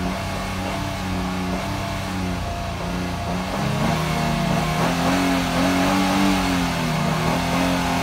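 Nissan VQ25DE 2.5-litre V6 revving in Park while still cold, held steady at around 4,000 rpm, then pushed higher about halfway through and held there.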